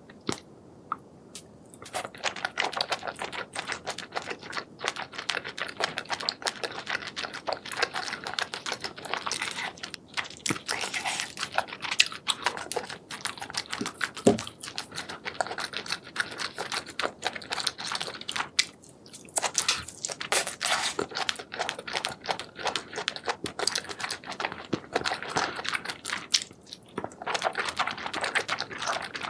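Close-miked chewing and biting of spicy seafood, a dense run of wet smacking clicks and crunches, starting about two seconds in.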